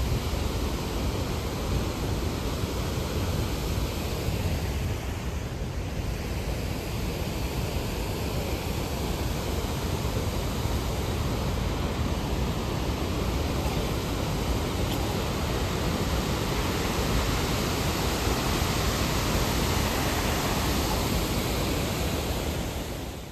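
Steady roar of Victoria Falls' falling water and spray, an even rushing noise with no breaks.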